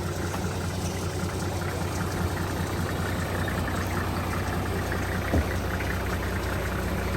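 A motor vehicle's engine running steadily with a low hum, with one sharp knock about five seconds in.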